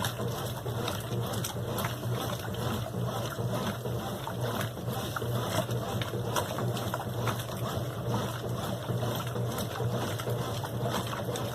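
Brastemp BWQ 24 washing machine running with water in the drum: a steady low hum under continuous sloshing and splashing.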